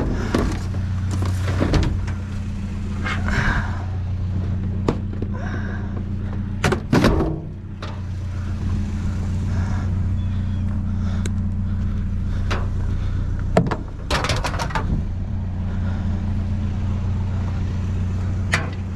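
Vehicle engine running steadily, with several sharp thunks and knocks over it, the loudest about a third of the way in and about three quarters of the way in.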